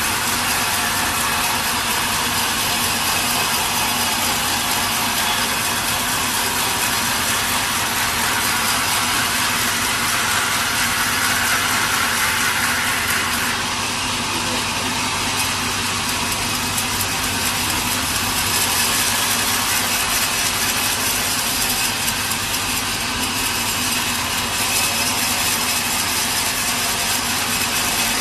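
Sawmill machinery running steadily, with a saw working through wood. A higher-pitched part of the noise cuts off about halfway through.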